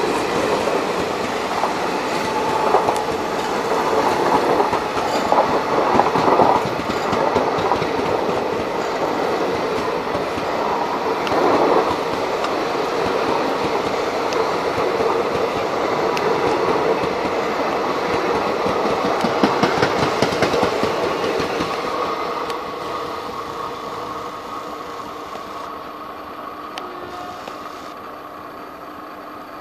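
Passenger coaches of an express train running past at speed, their wheels clattering over the rail joints. From about 22 seconds in the sound fades steadily as the last coach moves away.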